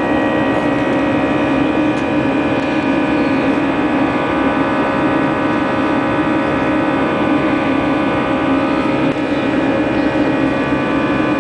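Steady cabin noise of an Airbus A320 airliner in flight: a constant engine drone and rushing air, with several steady tones held throughout.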